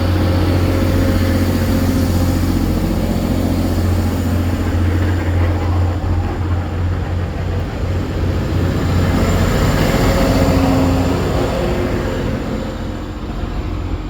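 Diesel train running with a steady low rumble and a faint engine hum above it, easing off near the end.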